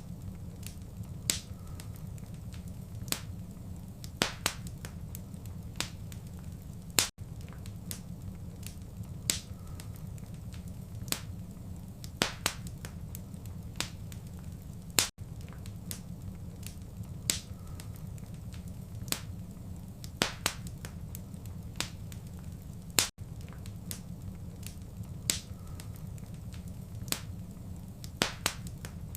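Wood fire crackling in a fireplace: irregular sharp pops and snaps, about one or two a second, a few louder than the rest, over a low steady rumble of the flames.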